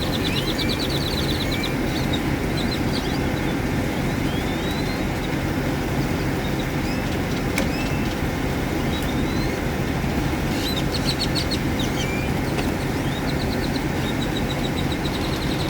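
Steady low drone of an idling diesel engine, most likely the bus's Detroit Diesel 8V92. Birds chirp over it with short rising calls, and rapid trills come near the start and again about two thirds of the way in.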